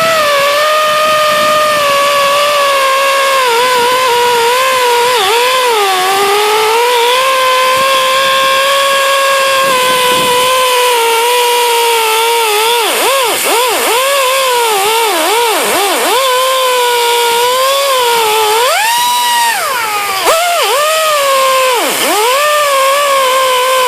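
Handheld electric power tool running at high speed with a strong whine, its pitch dipping and recovering again and again as it is pressed into the work and eased off, most often in the second half.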